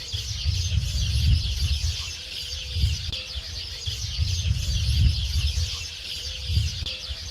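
Dense, continuous chatter of many small high-pitched bird calls, over an uneven low rumble of wind on the microphone.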